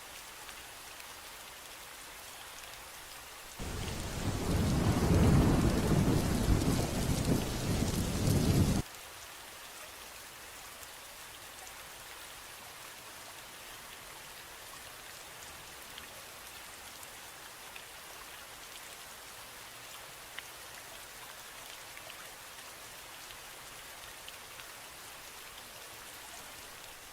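Steady rain falling, with a loud rumble of thunder about four seconds in that lasts some five seconds and cuts in and out abruptly, then light rain with a few scattered drop ticks.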